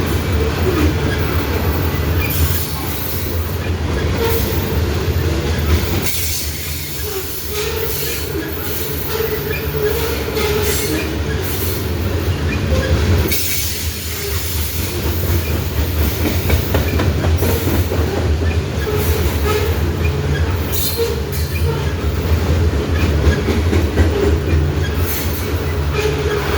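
A freight train's grain hopper cars rolling steadily past: a low wheel-and-rail rumble, sharp clacks over the rail joints, and intermittent faint wheel squeal.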